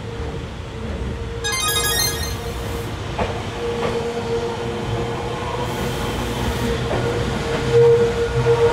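Electric train at a station platform: a steady hum over a low rumble, growing louder near the end, with a brief flutter of high tones about one and a half seconds in.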